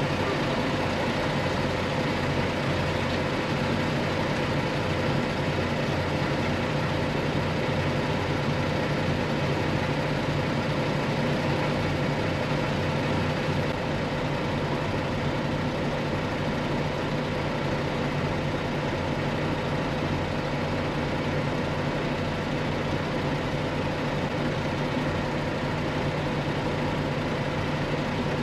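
Freightliner Columbia semi truck's diesel engine idling steadily.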